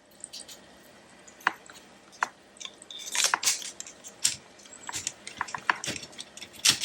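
Paper and craft ephemera being handled on a table. Scattered light clicks and taps come first, then denser rustling and crinkling from about three seconds in.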